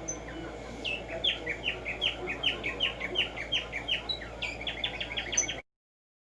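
Black-striped sparrow (tumba yegua) singing: a series of sharp downslurred notes, about three a second, that quicken into a fast run near the end, then stop abruptly.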